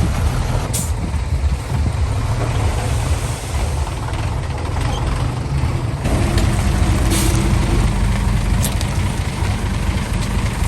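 Heavy diesel engines of a dump truck and bulldozer running under load, a deep steady rumble whose note shifts about six seconds in, with three short hisses of air from the truck's air brakes.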